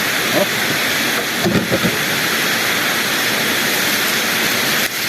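Steady rushing of a small waterfall, an even, unbroken wash of falling water.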